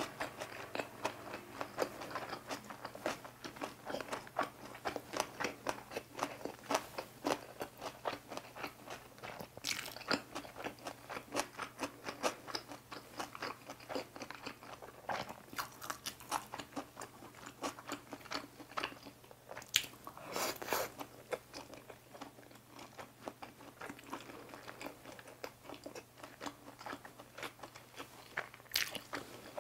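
Close-miked chewing of cucumber gimbap and boiled pork belly with seasoned dried radish: a steady stream of small crisp clicks, with a few louder bites scattered through.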